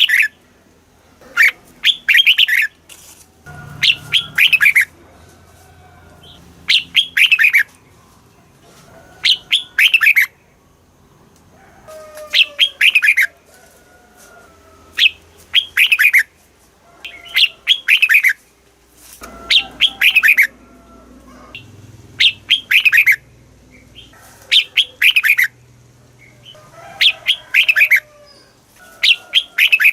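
Red-whiskered bulbul singing, short bright phrases of falling whistled notes repeated every two to three seconds.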